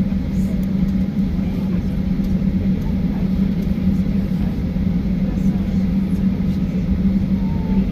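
Steady cabin rumble inside a Boeing 737-800 on the ground after landing, with a constant low hum running under it.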